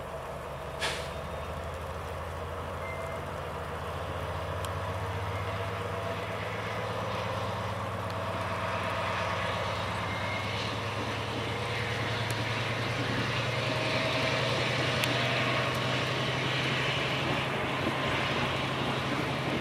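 Class 70 diesel-electric locomotive's engine working hard as it powers away from a standstill, a steady low drone that grows gradually louder. A short sharp click sounds about a second in.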